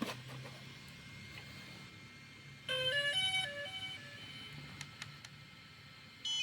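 DJI Spark drone powering up on its rebuilt battery: a short electronic startup tune of stepped beeping notes about three seconds in, lasting just over a second. Near the end a single loud, high beep.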